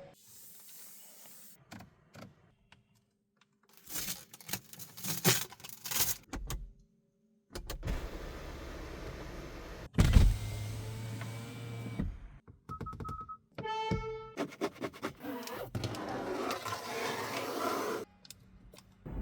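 Rustling and scraping as protective plastic wrapping is handled on a new car, broken by one heavy thunk about ten seconds in. A short electronic chime follows a few seconds later, then more rustling.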